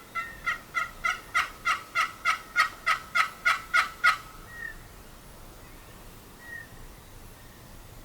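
A run of about thirteen turkey yelps, about three a second, each a quick two-note yelp, growing louder and stopping about four seconds in.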